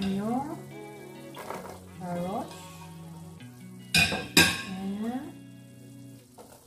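Ground pork sizzling in a wok and being stirred with a plastic spatula, under background music. About four seconds in come two loud clatters a moment apart as diced carrots are tipped into the pan.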